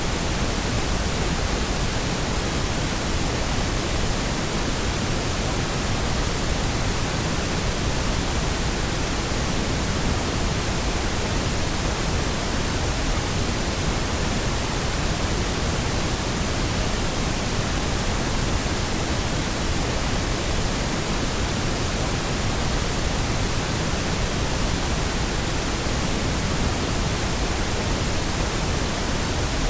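Steady pink noise: an even, unbroken hiss spread across all pitches, with no events or changes.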